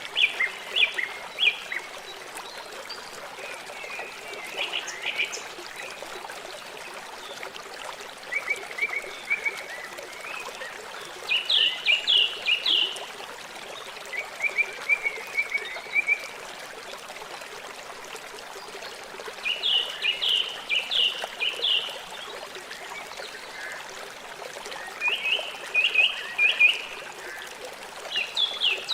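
River water flowing steadily, with an animal calling in quick series of high chirps every few seconds over it.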